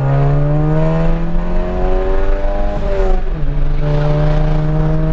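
Straight-piped Volkswagen Mk7 Golf GTI's turbocharged 2.0-litre four-cylinder pulling hard under acceleration, its exhaust note rising in pitch. About three seconds in the pitch drops at an upshift, then it pulls again at a steadier pitch.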